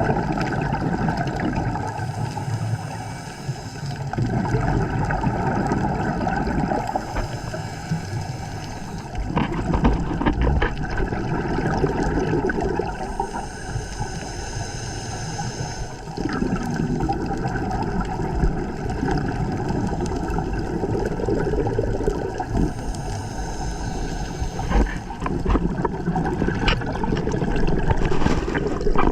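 Underwater scuba breathing: a diver's regulator hissing on each inhalation and exhaled bubbles gurgling out, in slow cycles of a few seconds each, with scattered small clicks.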